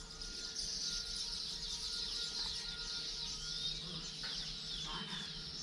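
Many small birds chirping together in a dense, continuous high chatter.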